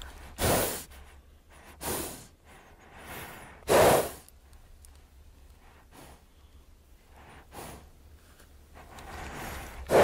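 Horses snorting: three short, breathy blows through the nostrils in the first four seconds, the third the loudest, followed by a few fainter breaths.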